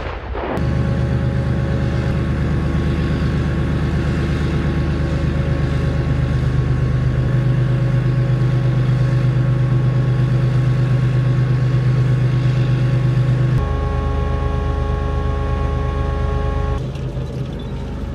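Main battle tank engine running steadily with a deep, even drone and a hum of several steady tones above it. Its tone shifts abruptly about three-quarters of the way through and drops a little near the end.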